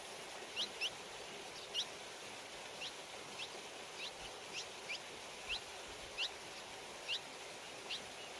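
A small bird chirping: about a dozen short, high, upward-sliding chirps, unevenly spaced, over a steady outdoor hiss.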